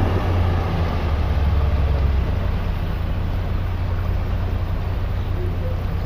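The tour boat's motor running steadily with a low, even hum, which sets in abruptly just before and eases a little about two seconds in.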